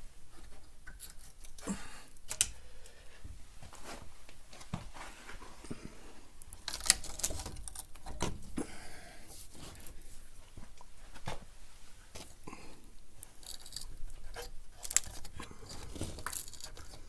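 Hand work on trailer tail-light wiring: irregular small clicks, knocks and rustles as wires and connectors are handled and pulled loose, with a sharper click about two seconds in and a louder one about seven seconds in.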